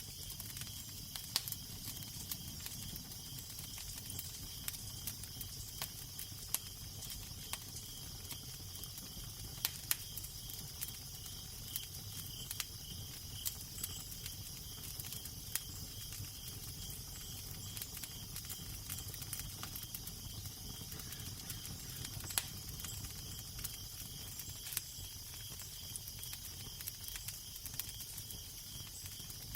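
Wood fire crackling, with irregular sharp pops, over a steady low wind rumble and hiss.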